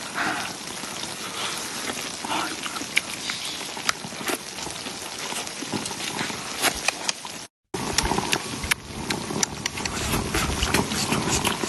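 Small Guizhou bursting tofu sizzling and crackling in oil on a griddle, a steady frying hiss with many sharp pops. It cuts out briefly about seven and a half seconds in, then the sizzling resumes.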